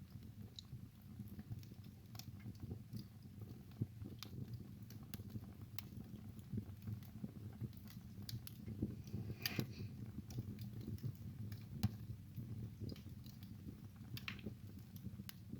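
Wood fire burning in a fireplace: a low steady rumble of flames with irregular sharp crackles and pops, a brief cluster of louder pops about two-thirds of the way through.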